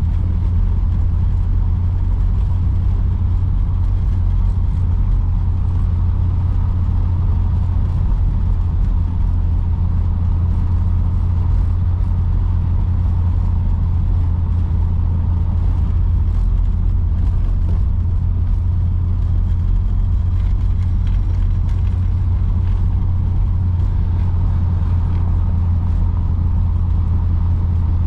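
1953 Oldsmobile Super 88 with its Rocket V8 driving at a steady pace: a constant low engine and road drone with no revving or gear changes.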